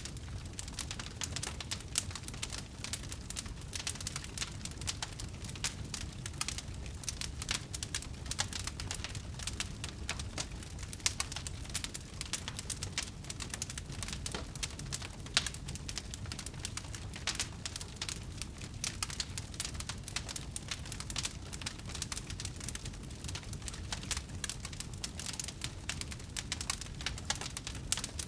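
Wood fire burning in a fireplace, crackling continuously with many small irregular pops over a low rumble of flames, a few sharper snaps standing out.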